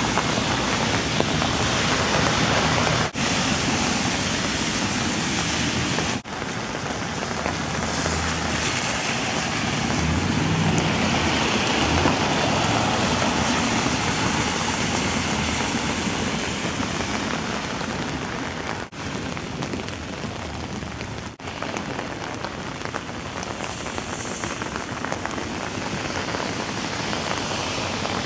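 Steady heavy rain falling, a dense hiss, broken by a few brief dropouts where clips are cut together.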